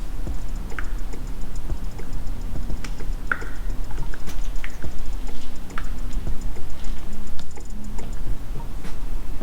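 Workshop sounds while engine oil is topped up: a fast, even run of light ticks over a steady low hum, with a few scattered clicks and knocks.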